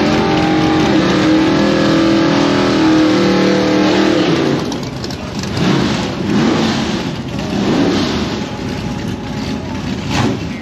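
Drag-racing engines running: a steady idle for the first four seconds or so, then engine noise swelling and falling in several short revs.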